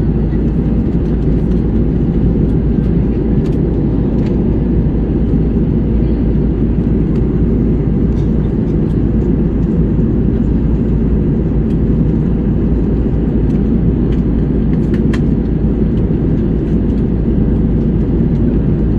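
Steady low rumble of airliner cabin noise, from engines and airflow heard inside the cabin as the plane descends toward landing, with a few faint ticks.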